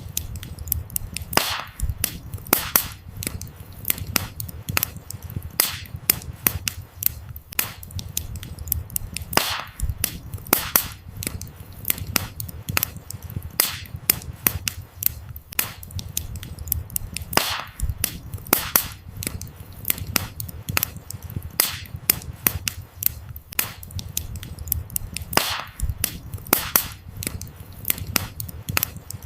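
Wood fire crackling: many sharp pops and snaps over a low, steady rumble of flame, with a louder pop about every eight seconds.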